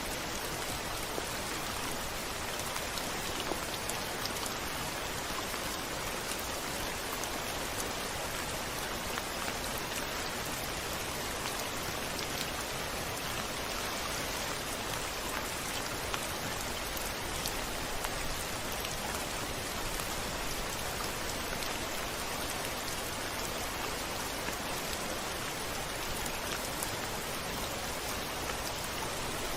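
Steady rain pattering on a window, with scattered individual drop ticks.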